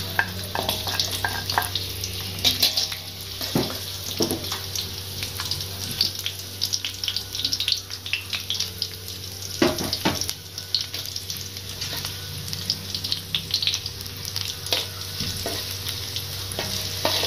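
Sliced shallots and garlic sizzling and crackling in hot oil in a wok, stirred with a slotted metal spatula, with frequent sharp clicks and a few louder knocks and scrapes of the spatula against the pan.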